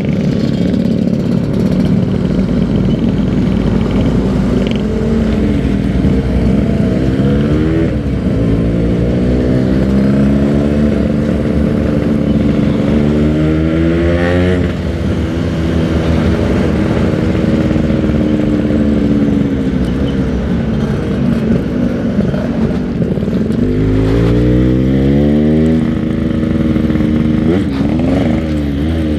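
Yamaha RX-King 135 cc single-cylinder two-stroke motorcycle engine under way, its pitch rising as it accelerates, several times, and falling away between.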